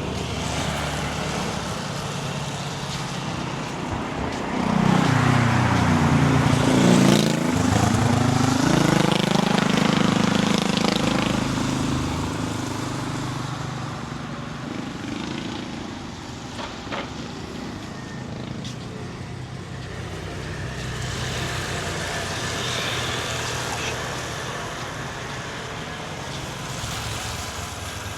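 Road traffic going by, with one motor vehicle passing close from about five to twelve seconds in, its engine pitch rising and then falling as it goes past.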